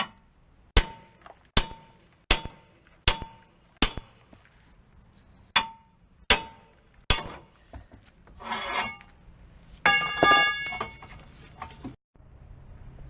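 Repeated sharp metal-on-metal strikes, each with a brief ring, about one every three-quarters of a second: a run of five, a pause, then three more. A scrape follows, then a ringing metallic clank.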